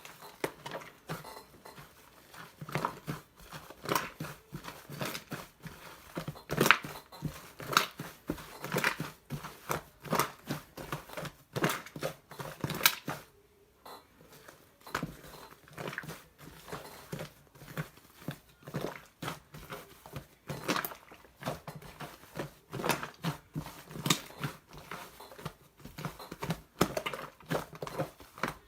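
Slime being kneaded and mixed with shaving foam by hand: wet squishing with many irregular sticky clicks and small air-bubble pops, a few a second, with a short pause about halfway through.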